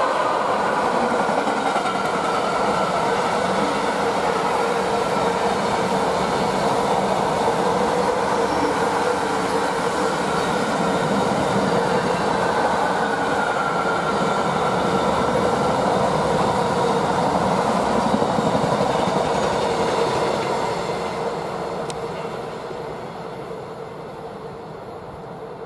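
Container freight train behind a pair of class 86 electric locomotives running past at speed: steady, loud wheel-on-rail noise from the container wagons, fading over the last few seconds as the train moves away.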